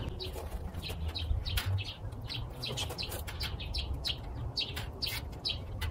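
A small bird chirping over and over, about three short, high chirps a second, over a low steady rumble.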